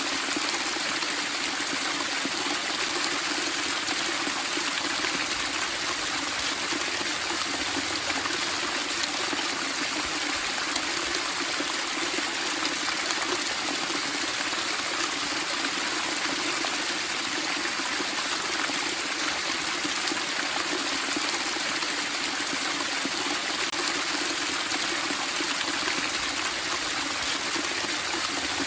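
Running water splashing and burbling steadily, with no pauses or changes.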